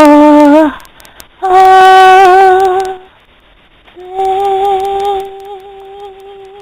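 A woman's voice singing long held notes, the end of a song. There are three notes, each held steady with a slight waver. The last one grows quieter and trails off.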